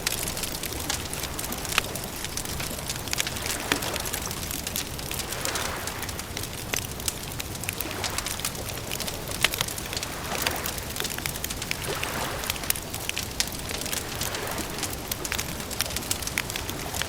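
Campfire crackling: a steady hiss of burning wood with many sharp pops and snaps.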